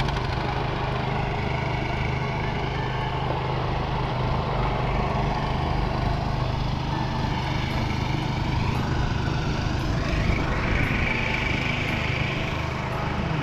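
Boat's motor running steadily with a constant low hum.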